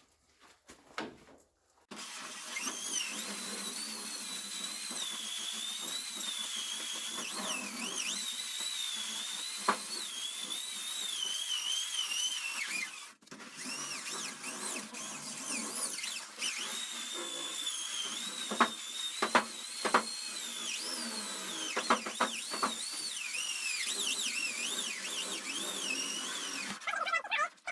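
Power tool spinning an abrasive wheel against the steel hood of an '87 Chevy truck to scrub off surface rust. The motor whine wavers in pitch as the load changes. It starts about two seconds in, stops briefly midway, then runs again until shortly before the end.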